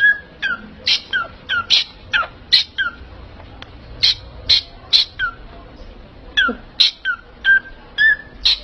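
A pet parrot squawking over and over in a rapid series of short, harsh calls, each followed by a brief falling note.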